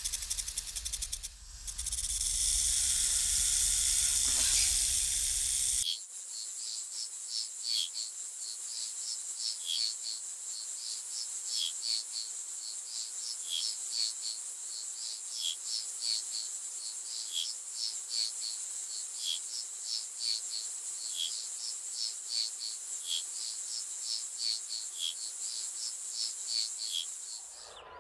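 A loud hiss for about the first six seconds, then insects calling: a steady high-pitched drone with regular short chirps over it, stopping just before the end.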